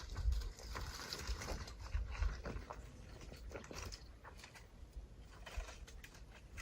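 Brush and branches being handled in shelter building: irregular crunching and rustling with scattered snaps and knocks, strongest in the first two and a half seconds.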